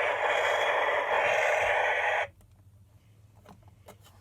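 Battery-powered Hess toy truck playing its electronic sound effect through a small built-in speaker: a steady, noisy rush that cuts off suddenly about two seconds in, followed by a few faint clicks of handling.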